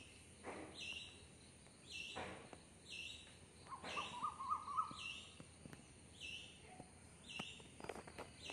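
A bird calling a short, high note about once a second, evenly repeated, over a faint steady high-pitched whine, with a few soft clicks.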